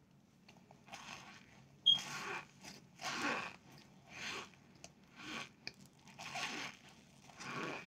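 Chunks of cornstarch being bitten and chewed: a series of squeaky crunches, about one a second, with a sharp snap about two seconds in.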